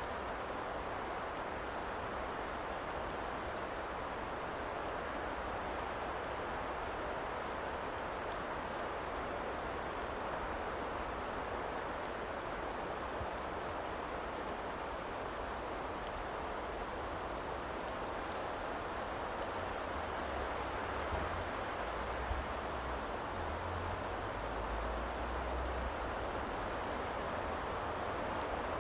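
Steady woodland ambience: an even hiss with faint high chirps now and then, and low rumbles between about twenty and twenty-six seconds in.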